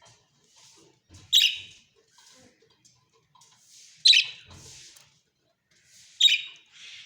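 A parrot giving three short, sharp, loud calls about two and a half seconds apart, with fainter hissing sounds in between.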